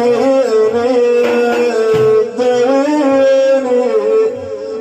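Male maddah singing a manqaba, an Iraqi devotional praise song for the Prophet, holding and bending one long ornamented phrase. He sings the word 'dawini' ('cure me') near the end.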